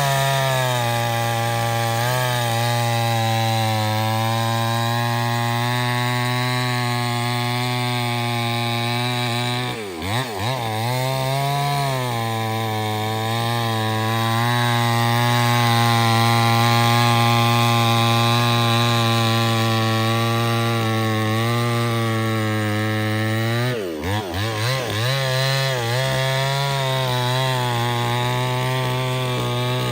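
Two-stroke chainsaw running at high revs, cutting wood. Twice, about ten seconds in and again near the end, its engine note briefly drops and climbs back up.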